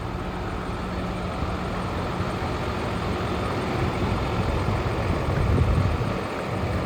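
Hino J08E inline-six turbo diesel of a Hino 338 box truck idling steadily, swelling slightly about five seconds in.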